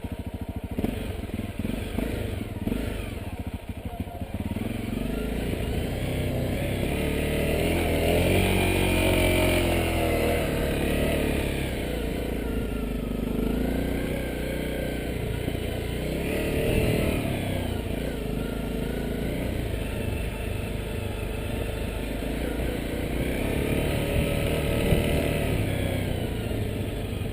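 Honda CRF250L dirt bike's single-cylinder engine running while riding, its pitch rising and falling again and again with the throttle. A rapid clatter covers the first few seconds.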